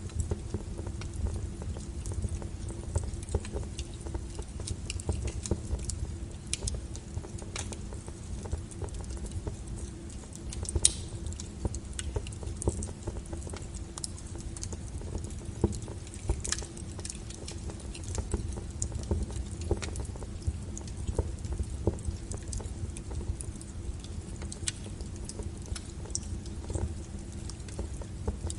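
Wood fire burning, with a steady low rumble of flames and frequent irregular crackles and pops, the sharpest about 11 and 16 seconds in.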